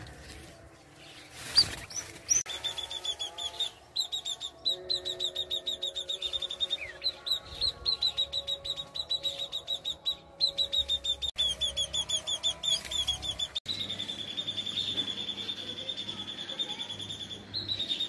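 Small birds chirping fast and evenly, several high chirps a second, running into one continuous trill near the end. A short sharp click comes about a second and a half in, before the chirping starts.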